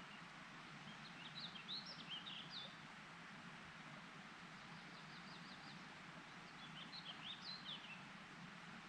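A songbird singing two short phrases of quick, jumbled high notes, about five seconds apart, with a brief run of faint ticking notes between them, over a steady background hiss.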